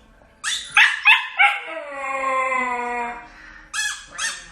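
A dog barking in a few quick yaps, then one long howl that falls slightly in pitch, then a few more quick barks near the end.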